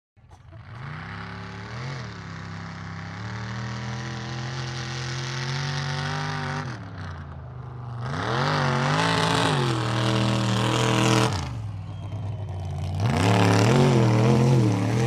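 Mud-bog race truck's engine running and being revved: a short blip about two seconds in, then two longer, louder revs in the second half.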